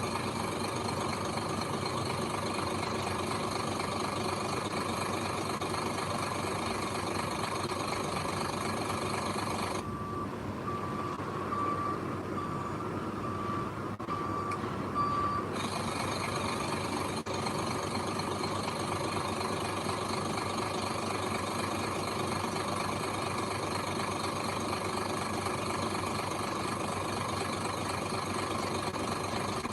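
Heavy machinery's diesel engine running steadily, with a vehicle reversing alarm beeping in a regular pattern for about five seconds from around ten seconds in.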